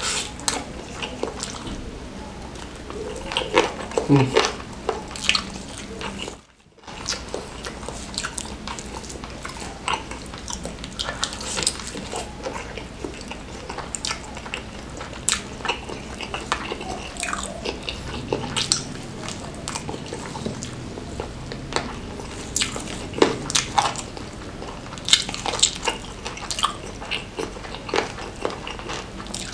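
Close-miked eating: biting into and chewing fried chicken smothered in wet chili sambal, with wet mouth sounds and many small clicks and crackles. There is a brief silent gap about six seconds in.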